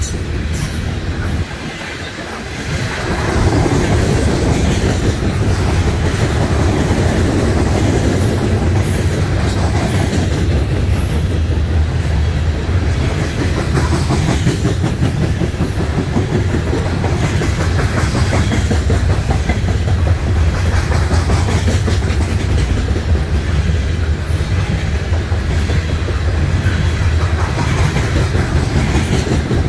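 Loaded coal hopper cars of a freight train rolling past, a steady heavy rumble of steel wheels on the rails; it grows louder about three seconds in.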